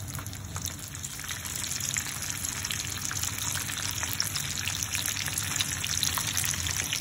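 Breaded chicken schnitzels shallow-frying in hot oil: a steady sizzle with dense fine crackling.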